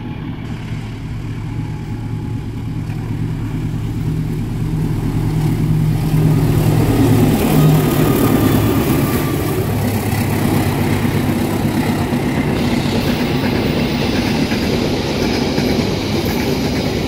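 Two diesel-hauled passenger trains passing each other on adjacent tracks. A locomotive engine's steady low drone comes first, then the rumble and hiss of coaches and wheels on the rails grows and stays loud from about six seconds in.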